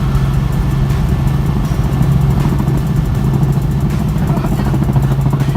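Helicopter engine and rotor running, a steady low drone with a fast, even pulsing, heard from inside the cabin as it comes in to land.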